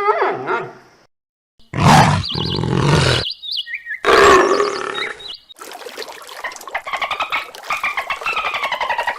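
A string of animal calls, each cut off abruptly: two loud, harsh, roar-like calls of about a second and a half each, then several seconds of rapid chattering whose pitch wavers up and down.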